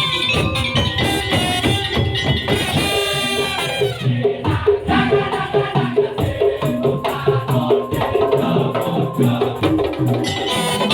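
Madurese daul (tong-tong) music: a percussion ensemble of drums and wooden slit drums with pitched melodic percussion, playing a busy, rhythmic arrangement. The high shimmer drops away about four seconds in, leaving the pitched notes and drums to the fore, and comes back near the end.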